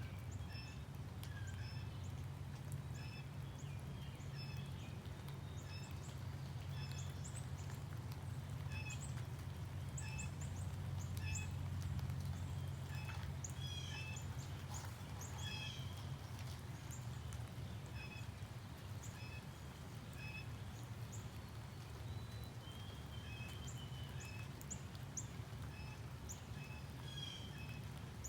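Small birds chirping in many short, high calls scattered throughout, over a steady low rumble.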